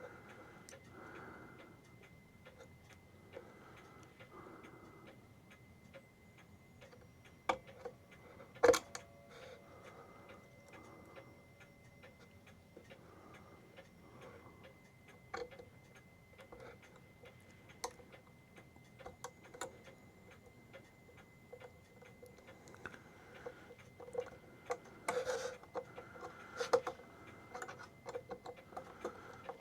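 Clock movement ticking, with irregular small clicks and a few sharper knocks as a small screw is worked into place in the movement. The loudest knock comes about nine seconds in, and several more come near the end.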